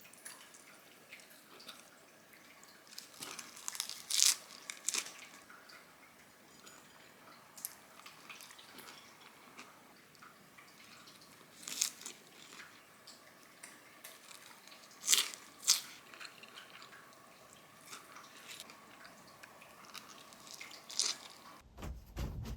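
Quiet sounds of food being eaten: soft crunching bites and chewing, with a few sharp clicks scattered through.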